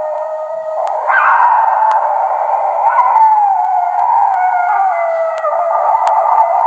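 Several wolves howling together: long overlapping howls at different pitches that drift slowly downward, with fresh howls sweeping up about a second in and again about three seconds in.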